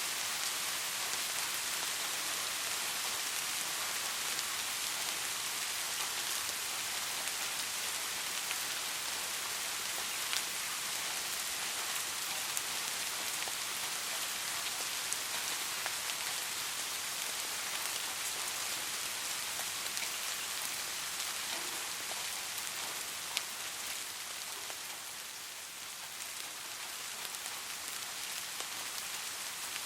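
Steady soft rain falling on a surface, an even hiss with scattered individual drops ticking. It eases slightly for a moment near the end, then picks back up.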